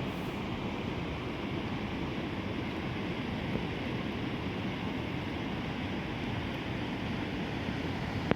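Steady rushing of a river, an even noise with no distinct events.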